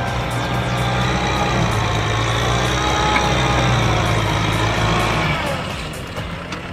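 A heavy machine's engine running steadily, growing a little louder towards the middle and then dying down about five and a half seconds in.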